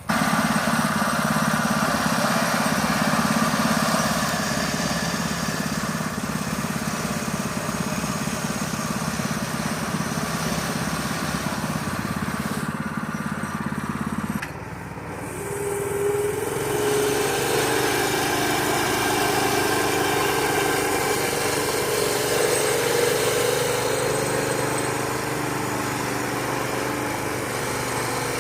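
Harbor Freight Predator 212 single-cylinder, four-stroke 6.5 hp small engine running steadily. About halfway through the sound changes abruptly: it dips, then runs on at a slightly higher steady pitch.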